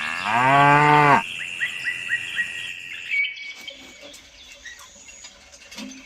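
A cow moos once, a single low call of about a second near the start. A quick run of bird chirps follows, over a steady high insect drone that stops about three seconds in.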